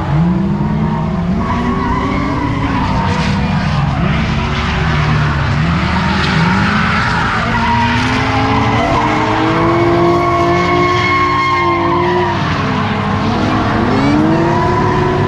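Drift car engine revving hard, its pitch climbing and dropping in quick pulls, then held high for several seconds before falling and climbing again, with tyres skidding.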